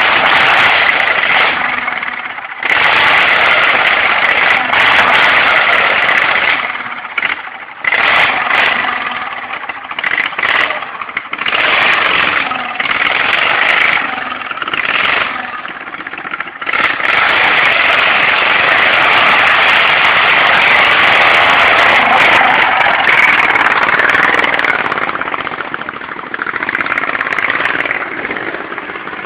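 Hopped-up racing lawn mower engines running hard and revving, the sound surging and dropping back repeatedly through the middle, then held steady at high throttle.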